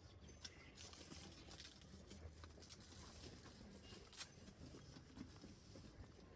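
Near silence, with faint scattered small clicks and rustles over a low steady hum.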